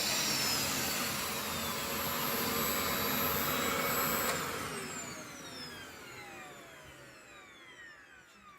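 A 1600 W vacuum cleaner motor running with a high whine, then switched off about four seconds in. Its pitch falls steadily as the motor spins down and fades.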